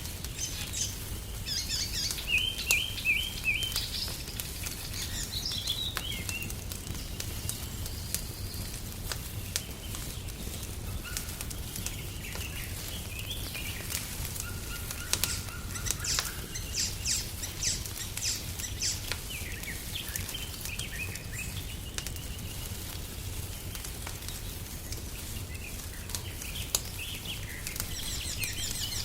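Small songbirds chirping and trilling in several bouts, with a log fire's sharp crackles popping here and there over a steady low rumble.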